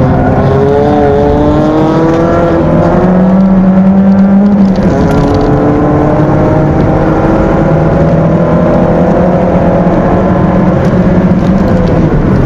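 Stock 1600 cc Peugeot 206 engine heard from inside the cabin, pulling hard under racing acceleration. Its pitch rises, drops sharply at a gear change about five seconds in, then climbs slowly again.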